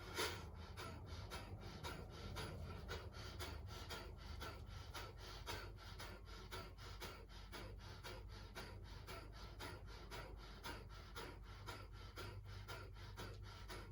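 Kapalbhati breathing: a man's quick, forceful exhalations through the nose, each driven by a sharp pull of the stomach muscles, repeated in a rapid, even rhythm, with only passive inhalations between them.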